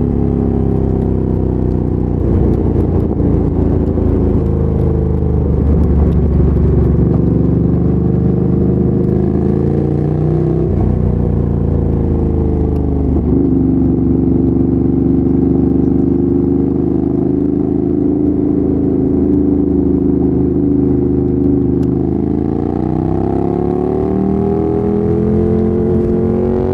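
2017 Ducati Monster 797's air-cooled L-twin running through a LeoVince LV-10 exhaust while riding. The engine note rises and falls, drops sharply about halfway through, holds steady for several seconds, then climbs near the end as the bike accelerates.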